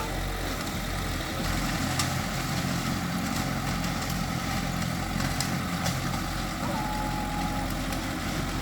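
Heavy earthmoving machine's diesel engine running steadily at low revs, idling, with no revving.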